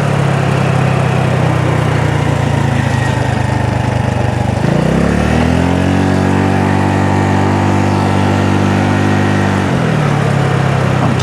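Honda Navi's small single-cylinder engine running under way. The engine note dips briefly about halfway through, climbs to a higher steady pitch as the throttle is opened, then drops back shortly before the end.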